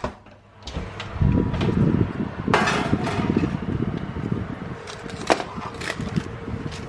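A utensil scraping and spreading thick brownie batter, with a few sharp clicks and knocks.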